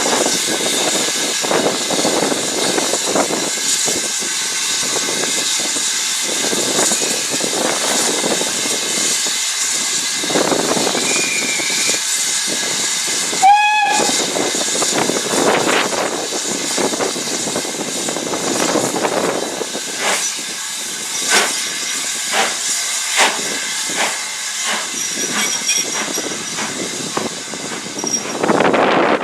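Steam train running, with a steady hiss of steam and one short whistle blast about halfway through. A run of sharp clicks follows in the last third.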